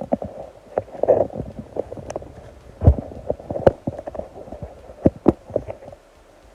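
Close handling noise from posing a collectible action figure: a rapid, irregular run of small knocks, taps and clicks over rubbing and rustling, with one heavier knock about three seconds in. It stops abruptly about six seconds in.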